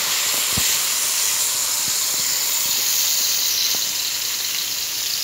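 Ground spice paste sizzling steadily in hot oil in a wok, with a few faint clicks.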